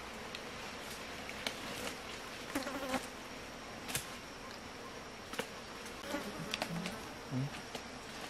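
An insect buzzing in short bursts, mostly in the second half, over a steady hiss with a few scattered clicks.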